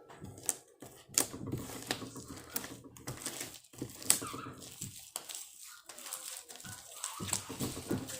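Slime being mixed and worked, giving off irregular sharp clicks and sticky pops several times a second.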